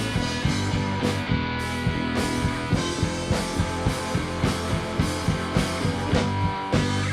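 Live rock band playing an instrumental stretch of a song: electric guitar and bass over a drum kit, with drum hits at a steady beat of about three a second.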